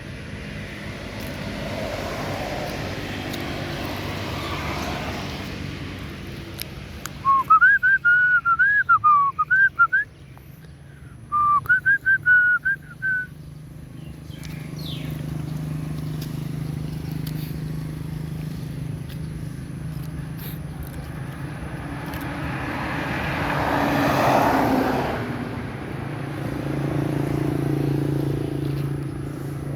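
A run of short, loud, high warbling whistle-like calls in two bursts in the middle, over a steady low hum with passing-vehicle noise that swells up twice.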